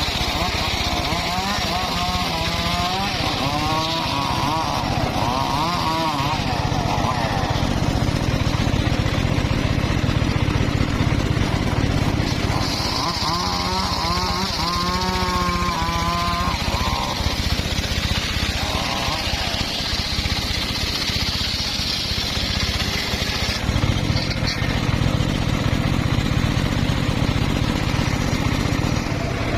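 Homemade engine-driven circular sawmill running steadily. It makes a continuous engine drone, with a wavering higher whine twice, once early on and again about halfway through.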